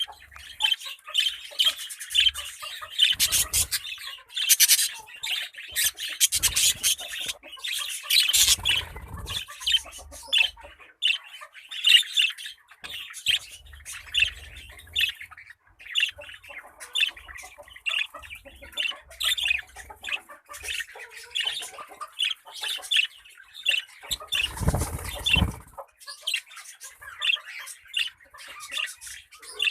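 Parrots calling: a steady run of short, repeated squawks and chattering calls, harsher for a stretch early on. A few low thuds are mixed in, the longest about 25 seconds in.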